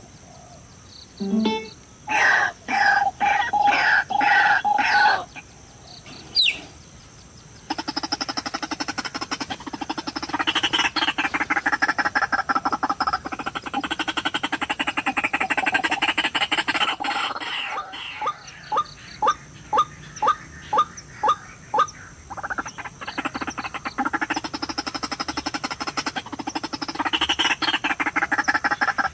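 White-breasted waterhen (ruak-ruak) calls: harsh, rapidly pulsing croaking that goes on almost without a break, with a run of about eight short calls a little past the middle.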